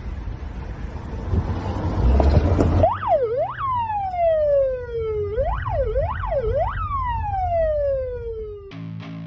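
Emergency-vehicle siren: about three seconds in it starts with quick up-and-down yelps, each followed by a long falling wail, after a stretch of rumbling noise. Guitar music comes in near the end.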